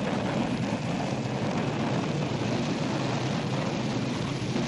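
Aircraft engines droning steadily, a low even rumble with no separate blasts.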